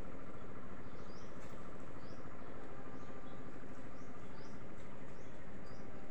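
Small birds giving short, high chirps, roughly one a second, over a steady outdoor background rush.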